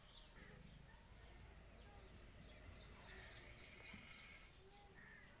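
Faint bird chirps: a run of short, high, downward-gliding calls about two to three seconds in, over a quiet outdoor background.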